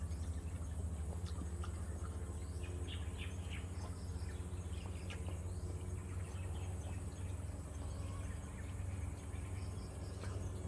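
Outdoor tropical ambience: insects keep up a steady high buzz and birds give scattered short chirps, over a steady low rumble.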